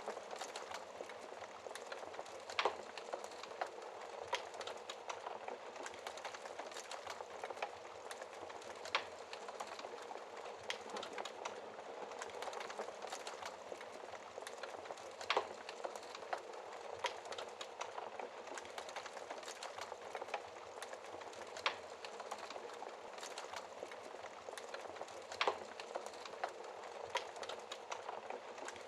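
Wood logs burning in a fireplace: a steady crackle of small snaps, with a louder pop every several seconds.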